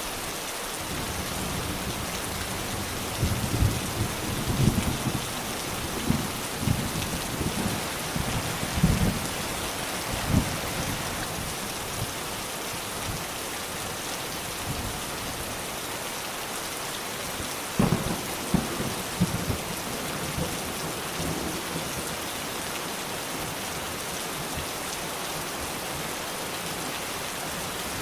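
Steady rain with thunder rumbling in two spells, the first from about three to eleven seconds in, the second starting with a sharp crack about eighteen seconds in.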